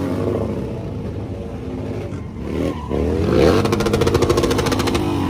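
Motorcycle engine running and being revved: the pitch dips, then climbs to the loudest rev a little past halfway and holds there.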